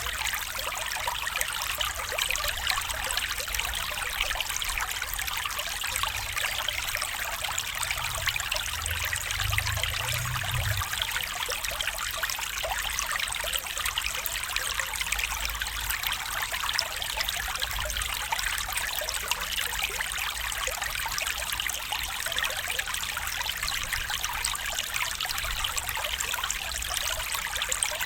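A small stream flowing steadily, a busy trickling and bubbling of water. A brief low rumble comes in about eight seconds in and fades by eleven.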